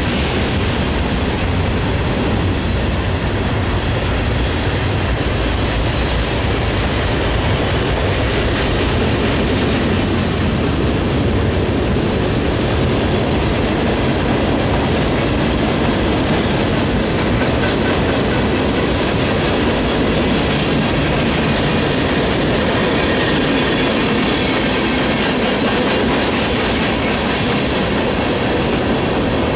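Freight train cars rolling past at speed: a steady, loud rumble of steel wheels on rail with clickety-clack over the joints.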